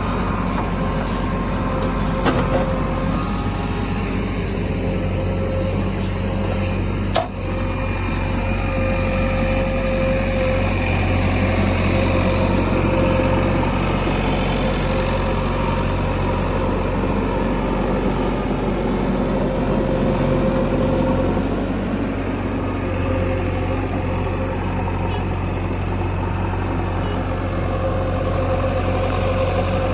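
Heavy diesel engines of a backhoe loader and a farm tractor running steadily at work, with a single short click about seven seconds in.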